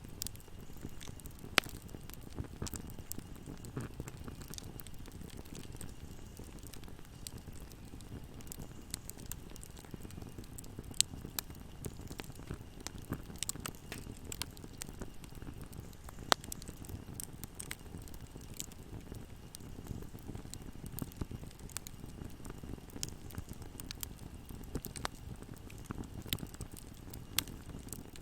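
Wood fire burning in a fireplace: a steady low rumble of flames under frequent small crackles, with a few louder sharp pops.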